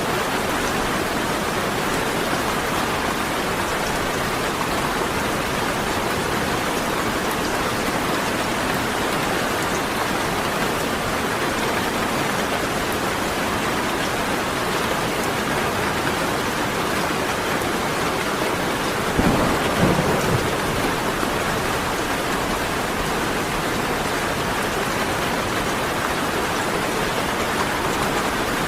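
Steady rain falling. About two-thirds of the way through, a brief low rumble of thunder lasts a second or so.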